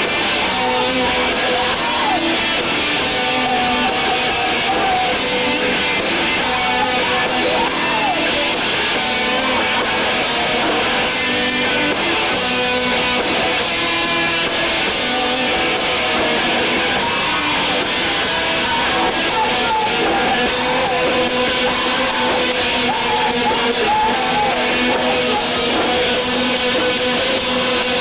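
Live rock band playing loudly: electric guitars and drums with crashing cymbals, in a dense, unbroken wall of sound.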